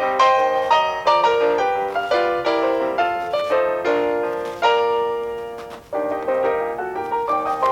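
Piano music: solo piano notes played at a moderate pace, with a brief pause about six seconds in.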